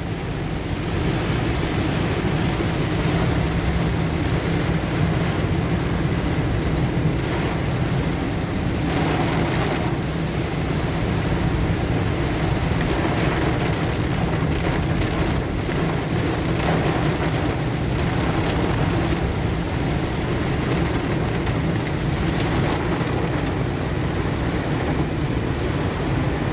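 Heavy rain beating steadily on a moving car, mixed with the low rumble of the car's road noise, heard from inside the cabin.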